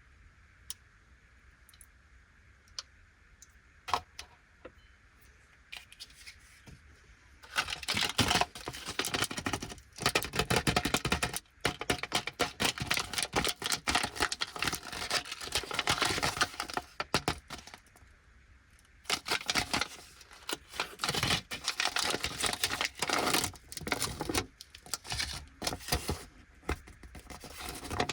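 Plastic candy wrapper crinkling and tearing as an Anpanman Pero Pero chocolate lollipop is unwrapped, in long crackling stretches after a few faint clicks and taps in the first seconds.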